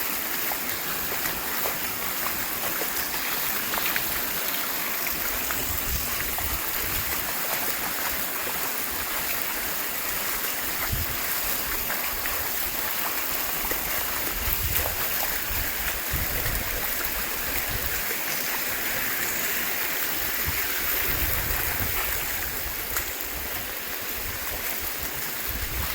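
Floodwater running along a flooded street, a steady rushing with a few irregular low thuds.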